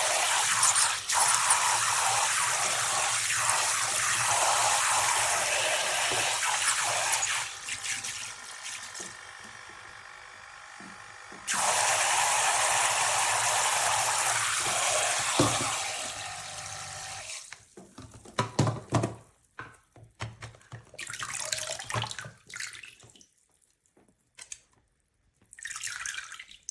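Water spraying from a battery-powered portable camping shower's head as a steady hiss. The hiss drops away about seven seconds in, comes back strongly near the middle, fades out a few seconds later, and is followed by scattered short sounds.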